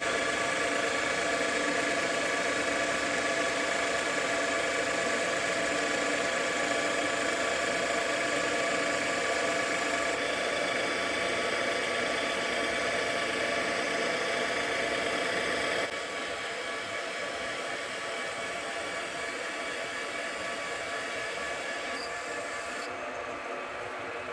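JFMT lathe running under power, taking a 3 mm depth-of-cut roughing pass along a bar, with a steady multi-tone machine whine. The sound drops a little in level about two-thirds of the way through.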